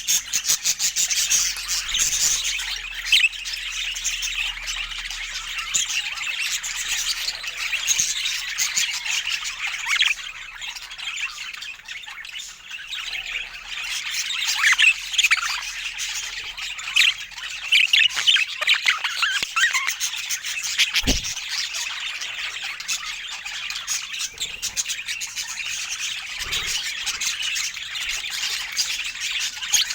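Budgerigars chattering and warbling without a break, a dense mix of squawks and chirps. A single knock sounds about twenty-one seconds in.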